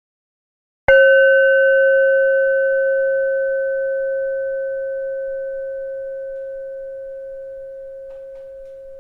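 A bell struck once about a second in, after a moment of silence, then ringing on with a low main tone and fainter higher overtones that fade slowly.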